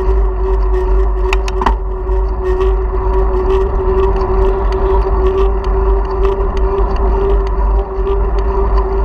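Wind rumble and road noise picked up by a bicycle-mounted action camera while riding, with a steady hum and scattered small rattling clicks.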